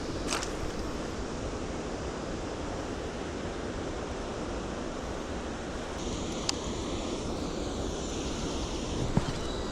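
Steady rushing outdoor noise of a flowing river, with a brief swish near the start and a few light clicks in the second half.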